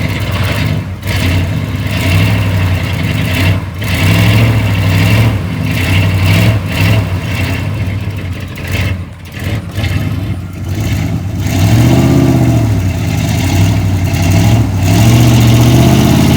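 Chevy Z71 pickup's engine running loud through a Flowmaster exhaust, revving up and back down in pitch, with two clear rev swells near the end.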